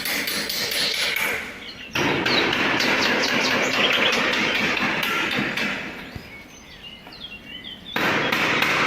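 Steady outdoor rushing noise, fading away and then coming back suddenly twice. Birds chirp in the quieter stretches.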